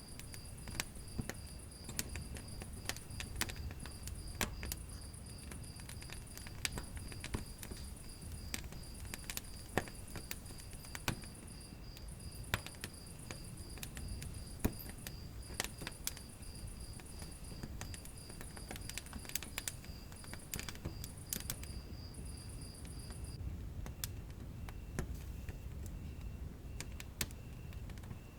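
Wood fire burning in a fireplace: frequent sharp crackles and pops over a low steady rumble. A high, evenly pulsed chirping, about four chirps a second, runs alongside and stops about 23 seconds in, while a lower, fainter chirp carries on.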